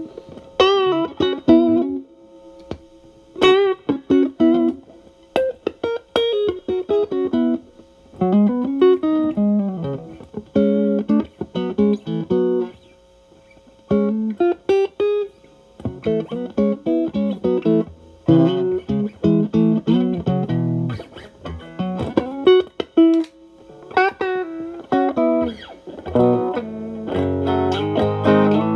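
Stratocaster electric guitar through a Xotic AC Plus overdrive pedal, Channel A on with its gain at about 8–9, into a Marshall Valvestate amp. It plays short phrases of single-note licks with bent notes and vibrato, with brief pauses between them, and ends on a held chord.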